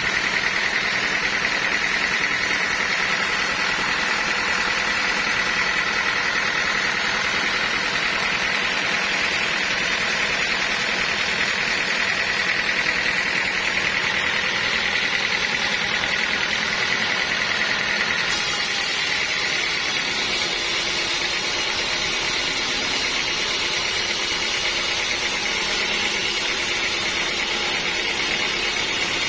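Sawmill saw machinery running steadily, with a steady high whine in the sound; the tone shifts slightly about two-thirds of the way through.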